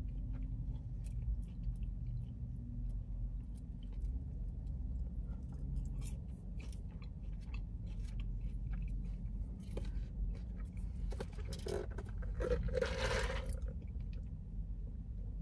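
Close-up chewing and small crunches of someone eating fast-food fries, over a steady low hum inside a car. A short, louder burst of noise comes about twelve seconds in.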